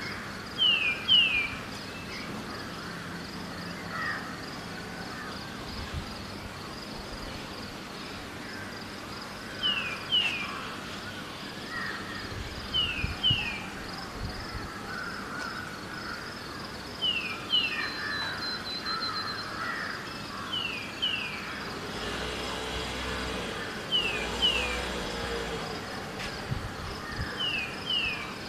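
Outdoor dawn bird chorus. One bird repeats a pair of quick, high, falling notes about every three and a half seconds, over scattered lower chirping and a steady high insect-like hiss. A low rumble like distant traffic rises and fades about three quarters of the way through.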